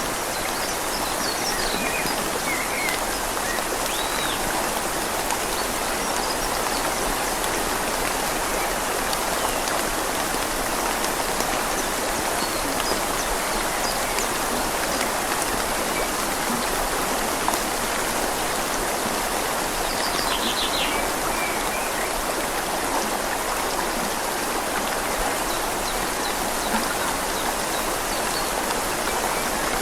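Steady rain falling on leaves with a river flowing beneath it, a constant even hiss. A few faint bird chirps come through briefly.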